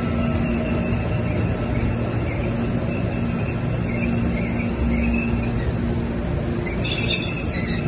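CPTM Series 9500 electric commuter train running past at close range: a steady rumble of wheels on rail with a low electric hum. A brief high-pitched screech of wheels comes near the end.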